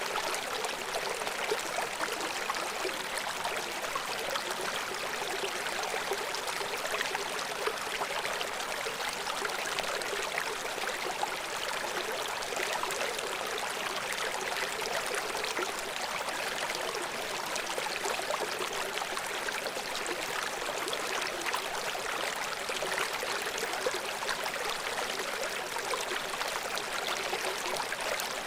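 River water flowing and splashing over rocks below a waterfall: a steady rushing with fine bubbling and splashing.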